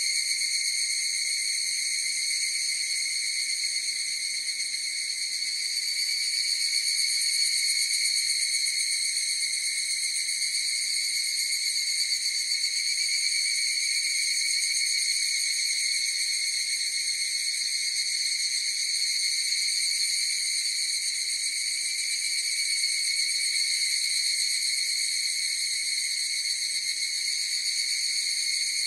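A chorus of higurashi (evening cicadas, Tanna japonensis) singing: a steady, unbroken, high-pitched ringing drone.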